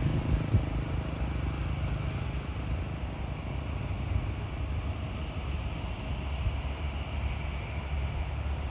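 ATR 72-500 twin-turboprop airliner on its landing approach: a steady drone from its engines and propellers over a low rumble.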